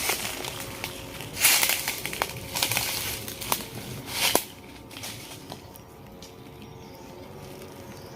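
Several bursts of crunching and crackling, with sharp snaps, of dry plant material being crushed. It dies down about four and a half seconds in to a quieter, steady background.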